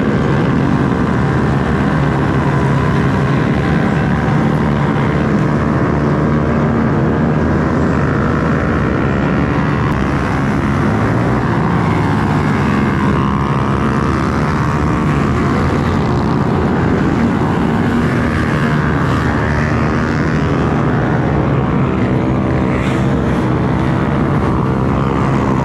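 Many small pit bike and minibike engines running together, a steady loud mix of overlapping engines with pitches shifting up and down as riders rev and ease off.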